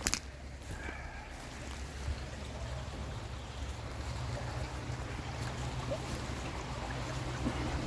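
Stream water running steadily, with a low rumble that grows a little louder near the end.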